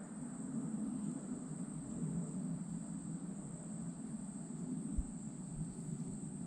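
Steady high-pitched insect trill from crickets or katydids over a low rushing hiss, with a single faint tap about five seconds in.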